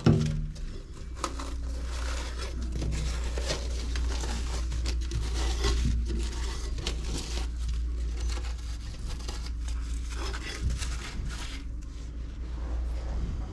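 Workshop handling noise: irregular scraping, rustling and light clicks, over a steady low hum, with a sharp knock right at the start.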